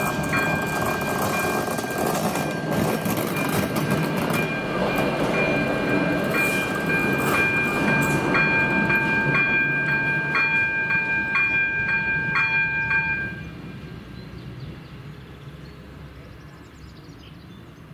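A ČD Cargo class 130 electric locomotive passing over a level crossing with a loud rumble, while the crossing's AŽD 97 electronic warning bell rings as a steady two-tone chime pulsing about twice a second. About 13 seconds in the bell stops and the train noise drops away: the crossing has switched off after the train has passed.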